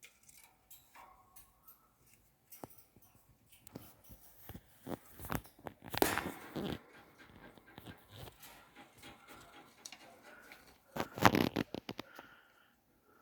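Pet conure at play with a handmade toy: scattered clicks, taps and rustles, with two louder bursts of noise about six and eleven seconds in.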